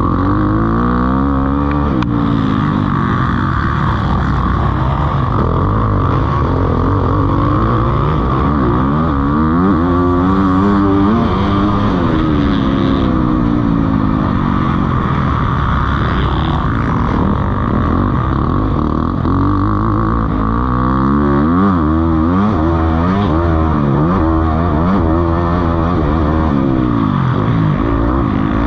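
Motocross bike engines racing, revving up and dropping back again and again as they accelerate, shift and brake around the track.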